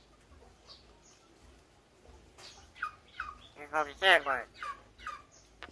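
Domestic fowl calling: a few short calls about two and a half seconds in, then a longer warbling call, the loudest, and a few more short calls.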